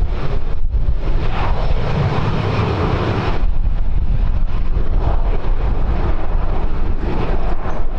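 Wind buffeting the microphone in gusts, a heavy low rumble that changes in strength every second or so.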